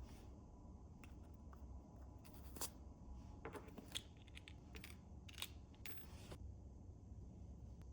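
Faint clicks and short scrapes of small parts being handled while a miniature engine kit is put together, a few at a time with quiet room tone between them.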